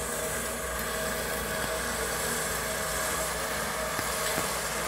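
Steady hum of a vehicle engine running at low speed, the vehicle slowly dragging the anchor across the lawn on its chain, with two faint clicks about four seconds in.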